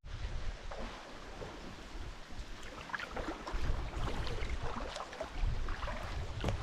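Water splashing and dripping around a kayak on open water, with wind rumbling on the microphone.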